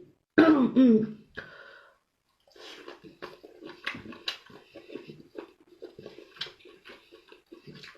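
A short loud spoken phrase near the start, then a person chewing food close to the microphone: many quick, irregular mouth sounds.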